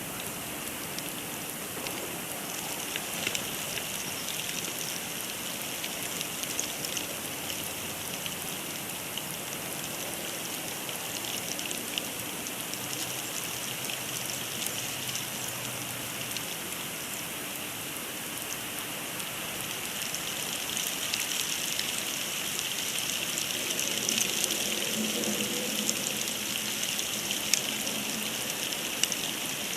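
Snowstorm precipitation hitting an outdoor nest-cam microphone: a steady, rain-like hiss with scattered small ticks, getting louder over the last ten seconds or so.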